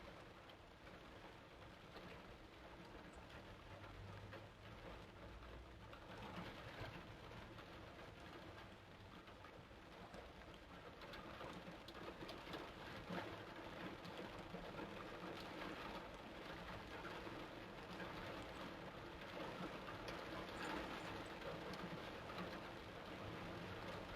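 Torrential rain falling: a steady hiss of drops that grows a little louder over the second half.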